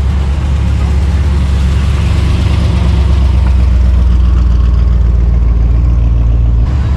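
Car engine idling with a loud, steady low rumble; the sound changes abruptly about a second before the end.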